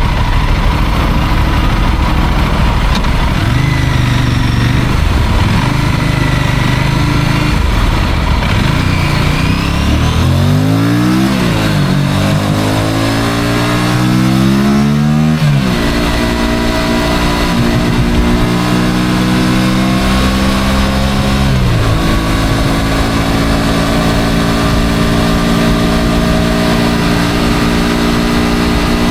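Motorcycle engine running under way over steady rushing noise. It revs up in two rising sweeps near the middle, holds a steady pitch, and eases off about three-quarters of the way through.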